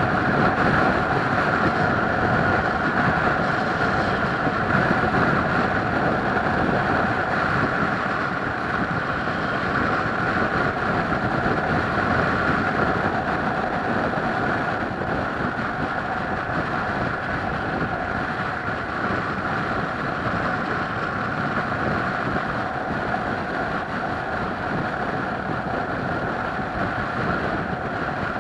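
Steady drone of a moving vehicle, a constant hum over rushing noise, unchanging throughout.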